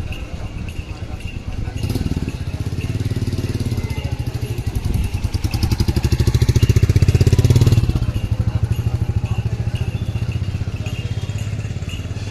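Motorcycle engine running close by with a rapid, even beat. It grows louder to a peak about seven seconds in, then eases off as if passing.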